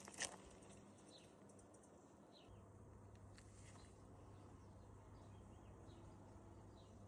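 Faint, short bird chirps, each sliding down in pitch, scattered irregularly over a quiet outdoor background, with a low steady hum coming in about two and a half seconds in.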